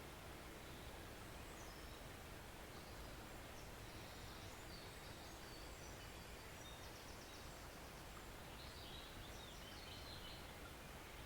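Faint, steady rush of a forest stream, with small birds chirping high and faint over it in several short runs, clearest just past the middle and again about three-quarters of the way through.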